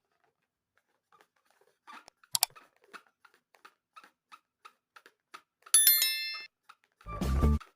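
Faint crackling and clicking of slime being squeezed and handled, with a sharp click a couple of seconds in. A bright bell-like ding rings out and fades about six seconds in, then a short loud burst of music comes near the end.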